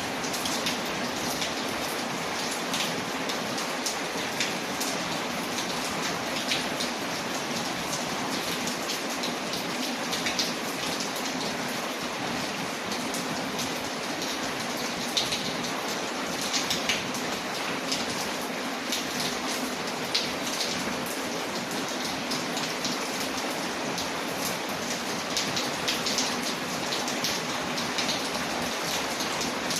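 Steady rain: an even hiss with many small, sharp ticks and crackles scattered through it.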